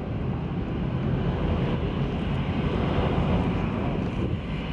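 Jet engine noise of a landing four-engine Airbus A340-300 airliner: a steady rumble that swells slightly toward the middle.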